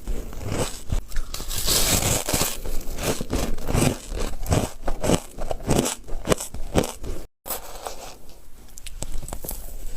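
Ice being bitten and chewed close to the microphone: a rapid, irregular run of crisp crunches and cracks, broken by a split-second gap of silence about seven seconds in.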